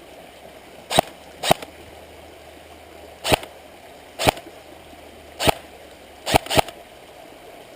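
Custom M4 airsoft rifle firing single shots on semi-auto: seven sharp cracks at uneven spacing, two of them close together near the end.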